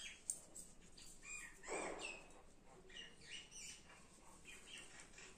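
Faint bird calls: several short high chirps scattered through, and a louder, harsher call about two seconds in. A light click sounds near the start.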